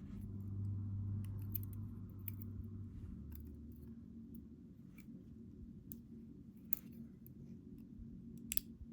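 Scattered small metallic clicks and ticks of tweezers working pins out of a padlock's pin chamber. A low steady hum sits under the first three seconds.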